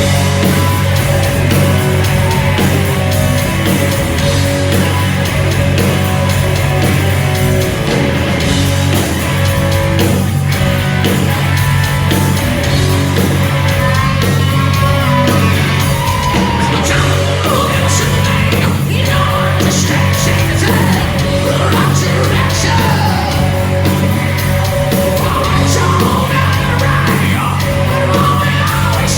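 Hard rock band playing live: loud electric guitars, bass and drums with a singer belting and yelling over them.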